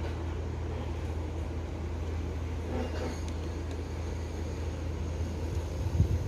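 A steady low hum with faint scattered small sounds over it, and a couple of low knocks near the end.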